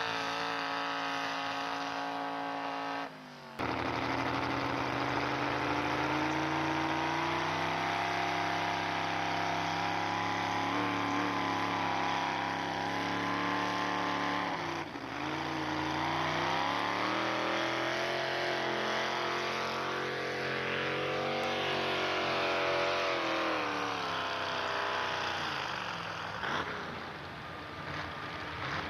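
Pulling truck's engine running hard at high revs under load, its pitch dipping and climbing again as the truck works down the track. The sound cuts out briefly about three seconds in.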